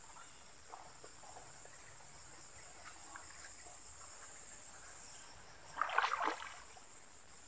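A steady, high-pitched insect chorus, pulsing rapidly, that cuts off suddenly about five seconds in; about a second later comes a short splashing of feet wading through shallow swamp water.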